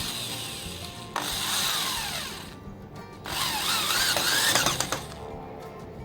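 Power drill running in three bursts, its motor pitch falling and then wavering up and down as the trigger is worked, over background music.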